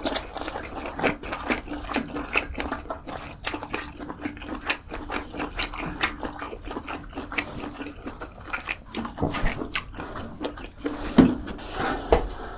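Close-miked eating sounds: wet chewing and mouth smacks in a rapid, uneven run of clicks. A louder knock comes about eleven seconds in, followed by a short swishing noise near the end.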